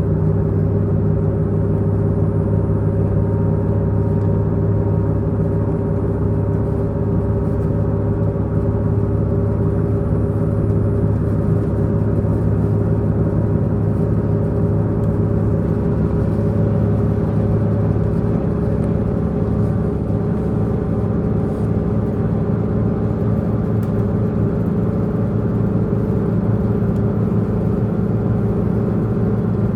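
Diesel engine of a diesel multiple-unit express train running steadily under load, heard from inside the passenger car, a low even drone over the rumble of the wheels on the rails.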